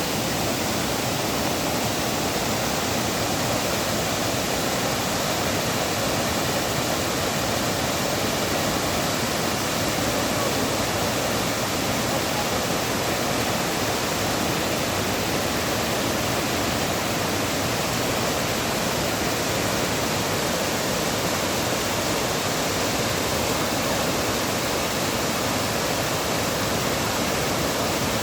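Waterfall: water falling and splashing as a steady, even rush with no breaks.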